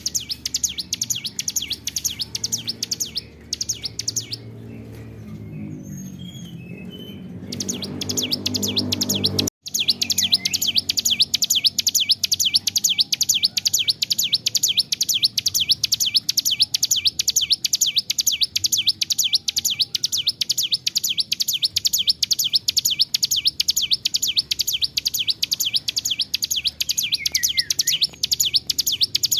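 Ciblek gunung (mountain prinia) singing in a long-winded run of fast, evenly repeated high chirps, several a second. The chirping pauses for a few seconds about three seconds in while a low rumble swells, then breaks off briefly near ten seconds and carries on unbroken.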